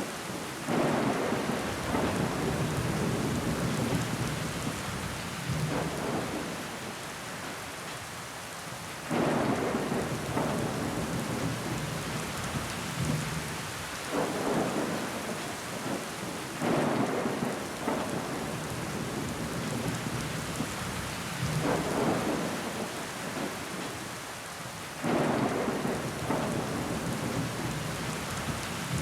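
Steady rain hissing against window glass, with louder surges that rise sharply and fade over a few seconds, returning every four to eight seconds.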